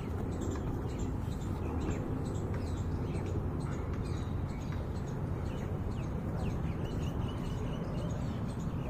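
Birds chirping, many short high calls, over a steady low rumble.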